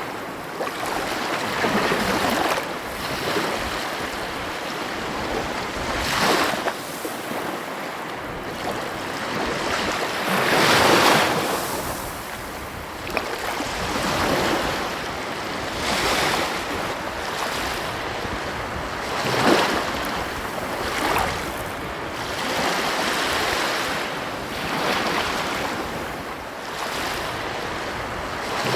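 Ocean surf: waves breaking and washing on a shore, swelling and falling back every few seconds, with the biggest wave a little over a third of the way in.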